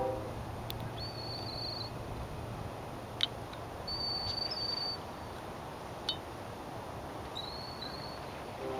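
Steady wind and water ambience with a thin, high, flat whistled bird call repeated three times, each under a second long and about three seconds apart. Two brief faint clicks fall between the calls.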